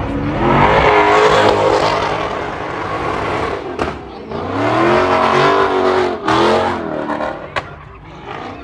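Car engine revved hard in two long surges, the pitch climbing and falling each time, fading near the end.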